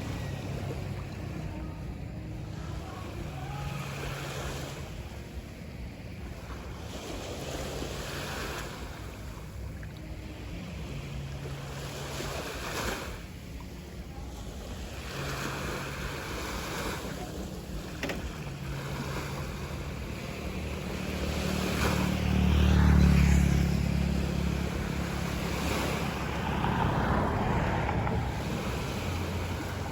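Sea waves washing onto a beach, swelling and easing every few seconds, with wind rumbling on the microphone. The low rumble grows louder about three quarters of the way through.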